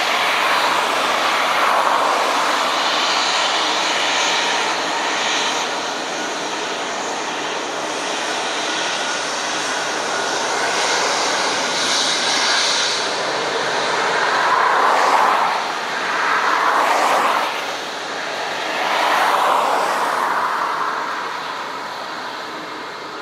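Airliner flying over: a steady, loud rushing engine noise with a few swells, fading away near the end.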